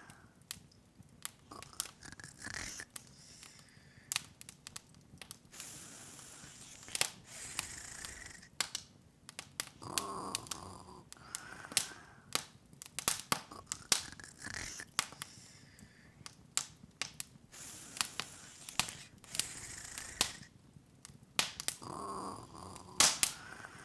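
Crackling open wood fire, with frequent sharp, irregular pops and snaps. Softer swells of sound come and go every few seconds between them.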